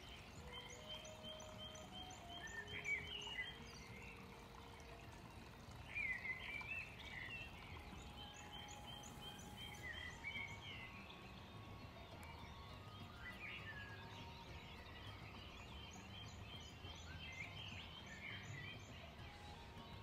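Small songbirds singing in the background: repeated chirps and several quick trills of evenly spaced high notes, over a faint, steady low outdoor noise.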